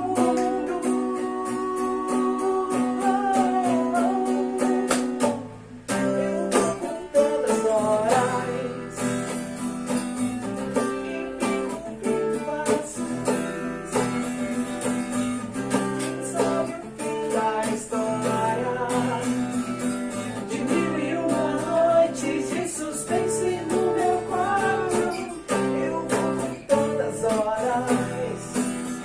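Instrumental break of a pop-rock song: guitar chords with a bending melody line above them over a steady beat, with a brief drop about six seconds in.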